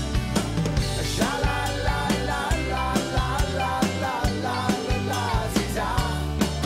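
A band playing an upbeat rock tune: a drum kit keeps a steady beat under a bass line and a gliding lead melody.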